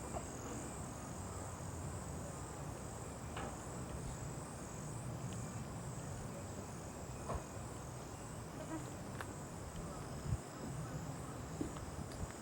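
Insect chorus in the swamp: a high, thin buzzing that pulses evenly in the first few seconds and then holds steady, over a low rumble, with a few light clicks.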